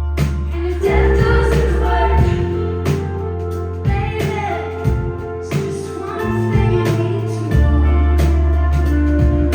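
Live rock band playing with a woman singing lead, steady drum hits over held bass notes.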